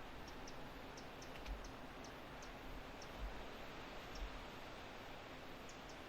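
Quiet outdoor background hiss with a scatter of short, faint high chirps and a few soft low thuds.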